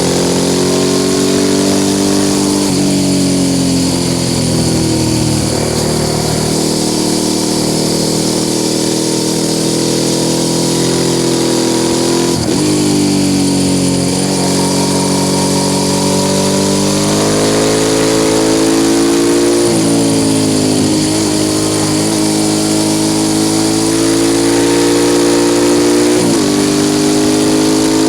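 Suzuki SV650 S's 645 cc V-twin through a Mivv aftermarket exhaust, heard from the bike while riding. The engine note rises and falls with the throttle and shifts abruptly in pitch several times, as at gear changes.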